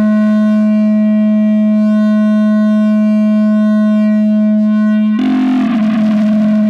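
No-input mixer feedback drone: a loud, steady electronic tone around 220 Hz with a stack of overtones. About five seconds in, a rougher, wavering noisy layer cuts in over it.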